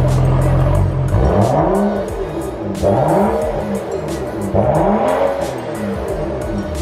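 BMW 335's straight-six engine idling through a newly modified exhaust, then revved three times, the pitch sweeping up and back down with each blip.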